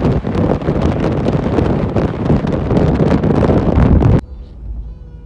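Wind rushing over the microphone with the rumble of a moving passenger train. It cuts off abruptly about four seconds in, leaving a much quieter steady background with faint hum tones.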